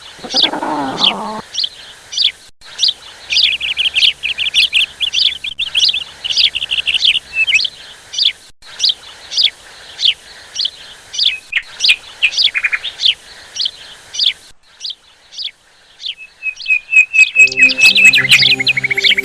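Songbirds chirping: a dense run of quick, repeated high chirps that goes on for about fourteen seconds, pauses briefly, then resumes as music comes in near the end.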